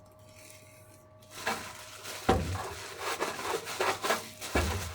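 Hands rubbing seasoning into the skin of a raw whole chicken: wet rubbing and crackling starting about a second in, with two dull knocks, one about two seconds in and one near the end.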